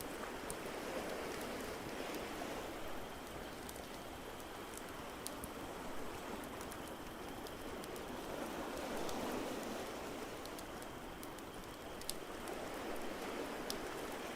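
Ambience mix of a steady wash of ocean waves that swells and ebbs slowly, with the scattered sharp crackles and pops of a wood fire burning in a fireplace.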